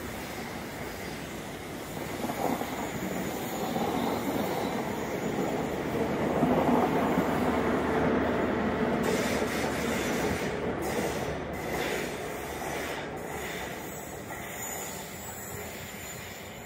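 ScotRail InterCity HST passing close by: the coaches rumble past, then the Class 43 diesel power car goes by, loudest about six to eight seconds in, and the sound fades as it draws away. There are a few sharp clicks from the wheels near the end.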